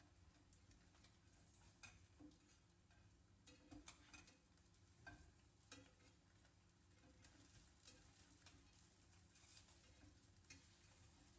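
Near silence in a kitchen: faint scattered light taps and clicks of cooking work over a soft low hum.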